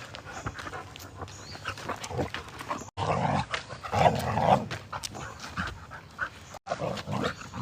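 A German Shepherd and an Australian Shepherd play-fighting, growling and snarling at each other in irregular bursts that grow loud from about three seconds in, with panting between.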